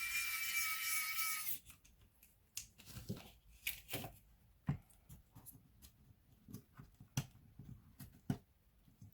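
A hissing rush with a steady whine, like a burst of air through a laptop's cooling fan, cuts off about a second and a half in. It is followed by a string of light clicks and taps from small laptop parts being handled.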